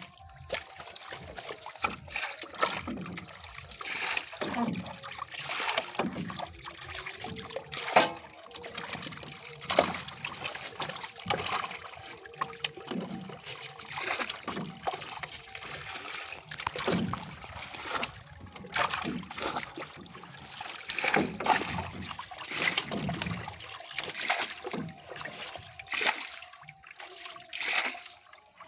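Water splashing and sloshing in many irregular slaps, with trickling between them.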